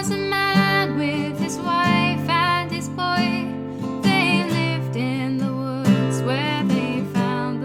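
Acoustic guitar strumming a slow folk song, with a wavering, gliding melody line carried over it in phrases.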